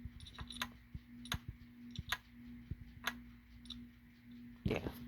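Laptop making sharp clicks at uneven intervals, about six of them, over a steady low hum. A louder brief noise comes near the end.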